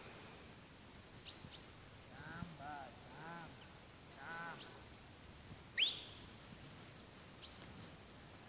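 Small birds chirping: short high chirps, with a quick sharp rising call about six seconds in. A few brief rising-and-falling calls of unclear source come in the middle.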